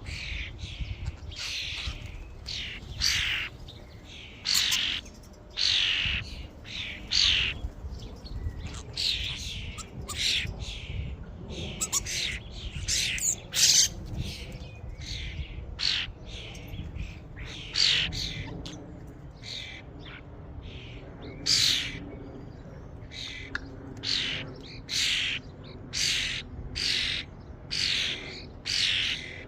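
A flock of common starlings calling: harsh, screechy squawks, one after another, about one or two a second.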